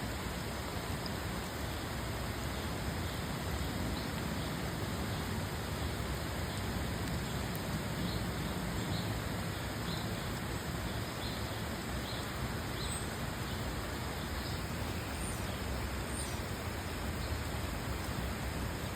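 Steady rain falling, an even hiss that does not let up. Faint short high peeps come about once a second in the middle.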